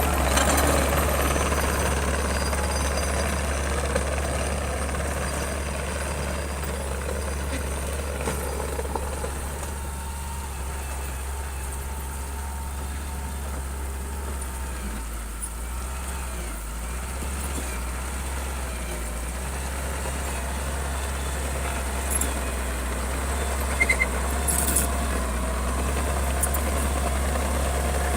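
Bulldozer's heavy diesel engine running steadily under load with a deep, low drone, a little louder at the start and easing slightly in the middle. A few short metallic clicks come near the end.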